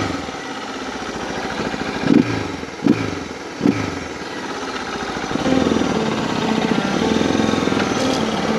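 Suzuki DR650 single-cylinder four-stroke engine: a few quick throttle blips whose pitch drops away after each, then steady running at higher revs from about halfway.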